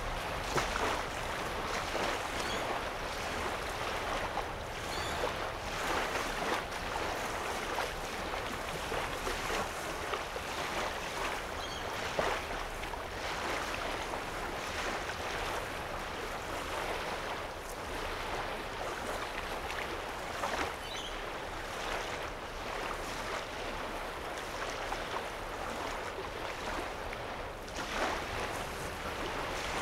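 Small waves lapping on a sandy lake shore, a steady wash broken by frequent irregular little splashes.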